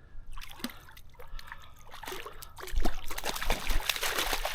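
Water splashing and trickling as a hooked trout thrashes at the surface while it is brought in to be landed. The splashing gets much louder about three seconds in.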